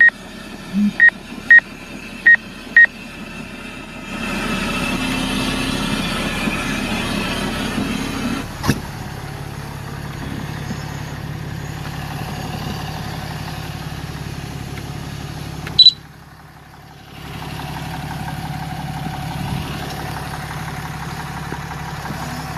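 Car interior: a handful of short electronic beeps, then the car pulls away about four seconds in, with engine and road noise rising, before settling into a steady cruising hum. A sharp click comes about sixteen seconds in, followed by a second-long dip in the noise.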